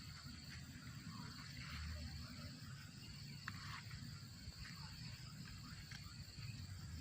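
Faint, steady, high cricket-like trill, which the uploader attributes to a spotted dove feeding its young. Light rustling runs under it, with one sharp click about three and a half seconds in.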